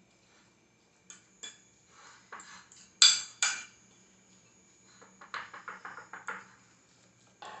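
A metal utensil knocking and scraping against a dish: scattered light clicks, two loud ringing clinks about three seconds in, then a quick run of taps a little after five seconds.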